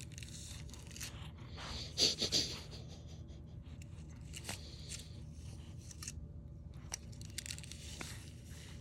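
Pet brush being stroked through a cat's fur: scratchy, rustling brush strokes coming and going in several passes, the loudest about two seconds in.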